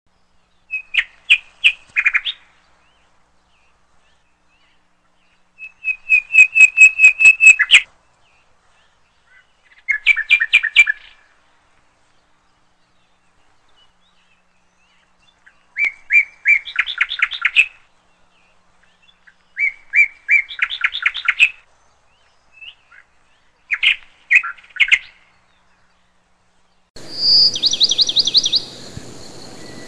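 Bird singing: short phrases of rapid, repeated high chirps, about every four seconds. Near the end a steady hiss comes in under a higher, quicker series of notes.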